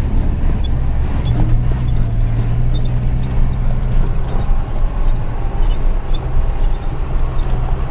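Vehicle engine running steadily with a low hum while driving over a rough road, with rattling and knocking throughout.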